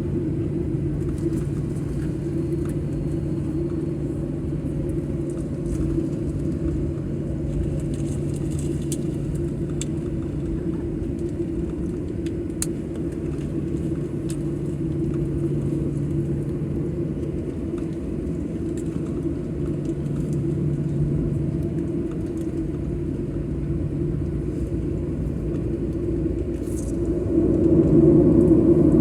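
Steady hum and rumble of an airliner's jet engines heard from inside the cabin, growing louder near the end.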